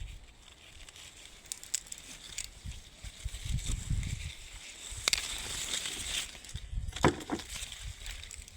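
Persimmon tree branches and leaves rustling as fruit is picked off by the stems, with a few sharp snaps or clicks, the loudest about five and seven seconds in.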